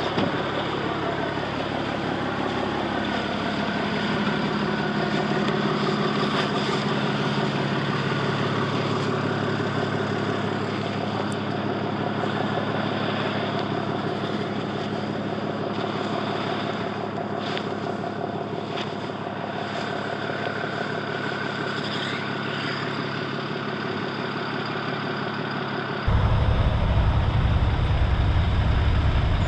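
Heavy diesel truck engine running, its speed rising over the first few seconds and then holding steady. Near the end a louder, deeper engine rumble cuts in suddenly.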